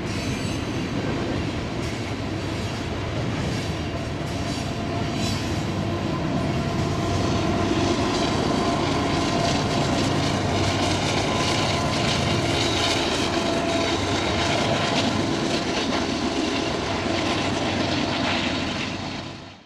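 Loaded coal train rolling past: the steel hopper cars' wheels clatter over the rail. Then the Southern Pacific-patched GE AC4400CW locomotive pushing on the rear as distributed power goes by, its 16-cylinder diesel running. The sound grows louder about eight seconds in and cuts off at the end.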